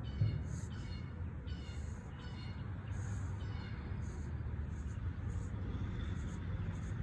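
Birds calling: a handful of short chirps in the first few seconds, over a steady low rumble of outdoor background noise.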